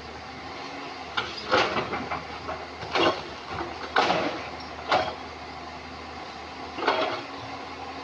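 Excavator engine running steadily, with about five irregular loud knocks and scrapes of stone against the digging bucket and the rocks as the machine works river-bed boulders.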